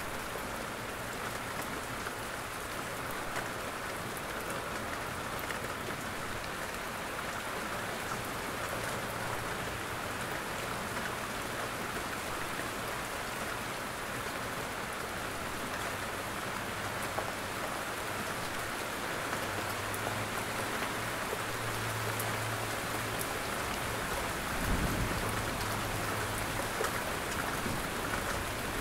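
Steady rain falling on a roof and jungle foliage, with scattered individual drops. A brief low thump near the end.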